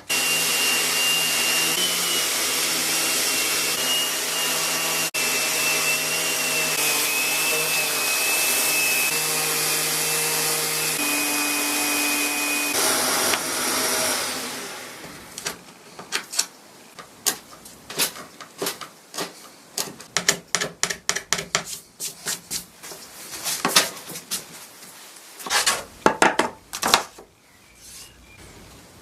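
A small electric power tool motor runs steadily for about thirteen seconds with a high whine that wavers in pitch, then winds down. After it stops, a run of sharp clicks and knocks follows as wooden pieces are handled.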